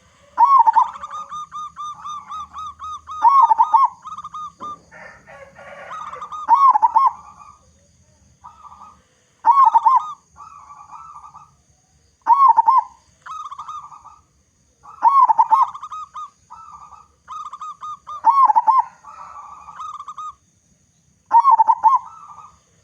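Zebra dove (local perkutut) singing: a loud phrase of quick, rolling coos about every three seconds, with softer cooing notes in between.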